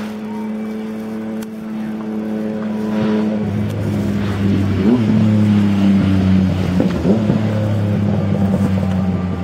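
Steady low mechanical hum from a train standing at a station platform, growing louder about three seconds in, with its pitch briefly wavering twice.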